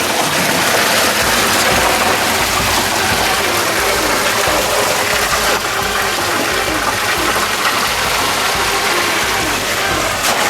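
Water gushing steadily in a loud, even rush.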